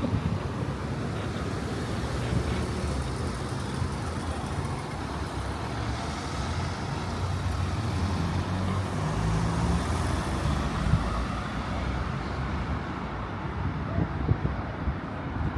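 Road traffic: a motor vehicle's engine hum close by, with the hiss of a vehicle passing swelling up around the middle and easing off.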